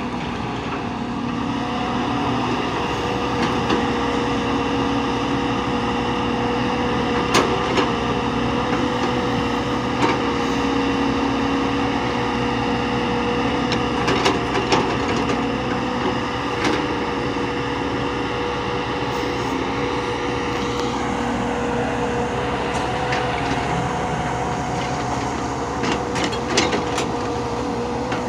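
A machine's engine running steadily, with scattered sharp clicks and knocks over it, several close together near the end.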